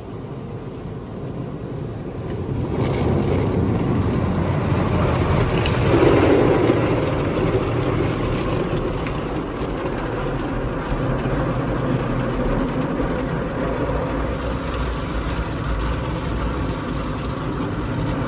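Car on the move: steady road and engine rumble that swells about three seconds in, then holds.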